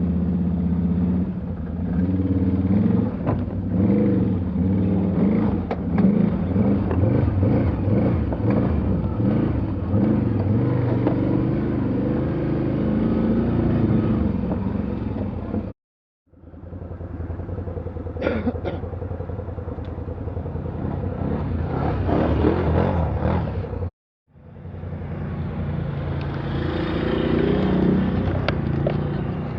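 Off-road vehicle engine revving up and down. The sound breaks off twice, briefly.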